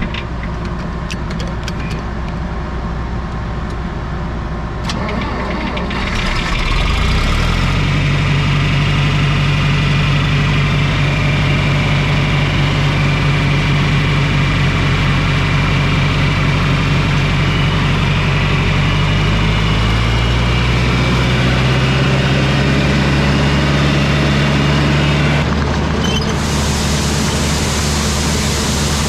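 Diesel engine running, speeding up about six seconds in and then holding steady, with further shifts in pitch about twenty seconds in and again near the end.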